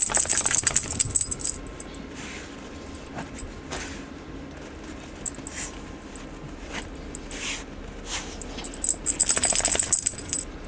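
A dog's metal collar tags jingling in two bursts, one at the start lasting about a second and a half and another near the end, with fainter scattered sounds between.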